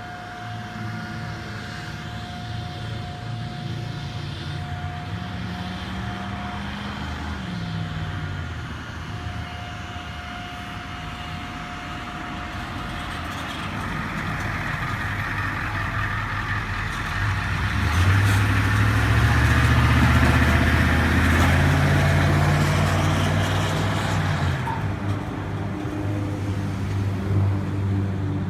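Large road vehicle engines running. One engine revs up and falls back a few seconds in, and a louder one builds and rises in pitch as it accelerates past in the second half.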